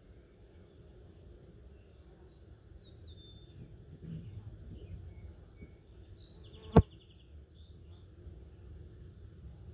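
Birds chirping over a low outdoor rumble, with one sharp click about seven seconds in that is the loudest thing heard.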